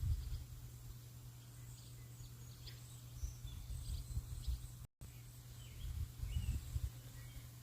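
Small birds chirping faintly, short high calls scattered through, over an uneven low rumble that swells in gusts like wind buffeting the microphone. The audio cuts out briefly about two-thirds of the way in.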